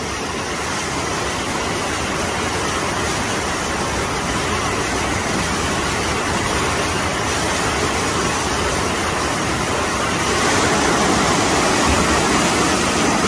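Rushing floodwater: a steady, even rush of noise that grows louder about ten seconds in.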